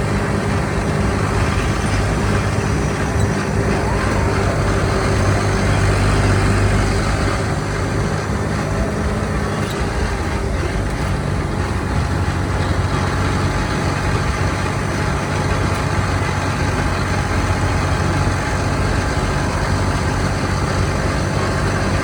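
Tractor engine running steadily under load, a low, even drone heard from aboard the tractor ride, slightly louder for a few seconds near the start.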